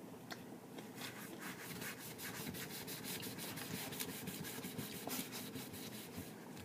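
Fast, repeated scraping strokes, several a second, at a low, even level.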